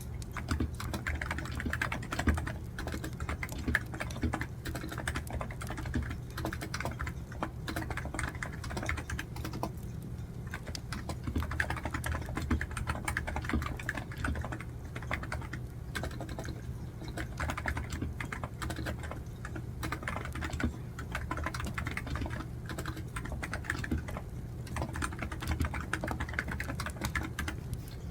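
Typing on a computer keyboard: quick, uneven runs of keystrokes with a brief lull about ten seconds in, over a steady low hum.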